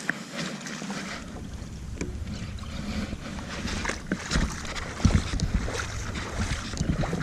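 Kayak moving over ocean water, with wind rumbling on the microphone and gusting harder from about four seconds in.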